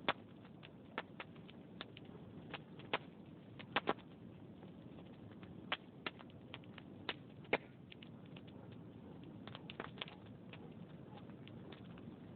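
Log fire crackling in a fireplace: irregular sharp pops and snaps, a few of them louder, over a low steady rustle from the flames.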